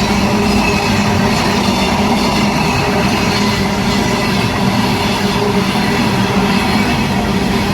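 Indian Railways freight train rolling past on the rails: a loud, steady rumble of wagon wheels with an even low hum underneath, unbroken throughout.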